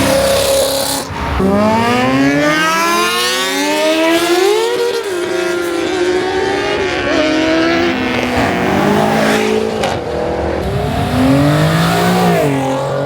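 Car engine revving hard, its pitch climbing and dropping again and again, with tyres squealing in the first few seconds.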